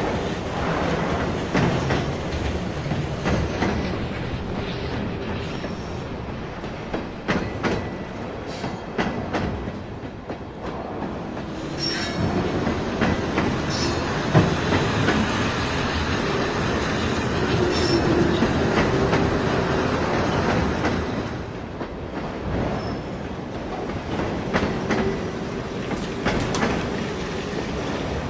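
Motorised LEGO train running on plastic track: a steady running whir with scattered clicks as the wheels pass over the track, getting quieter about a third of the way through and louder again past the middle.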